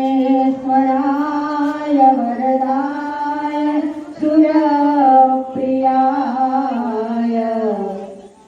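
Voices singing a slow chant-like melody in long held notes, phrase after phrase, with short glides between notes and a brief pause near the end.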